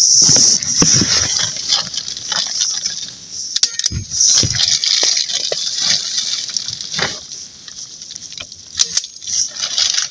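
Plastic tarp rustling and crinkling as it is handled, with scattered clicks and knocks and a steady high hiss throughout.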